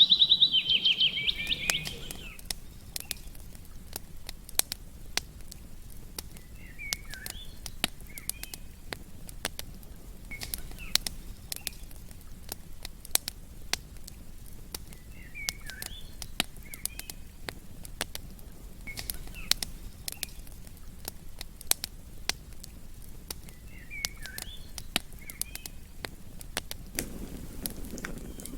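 Campfire crackling with frequent sharp pops. A bird sings loudly for the first couple of seconds, and faint short bird chirps come back a few times later.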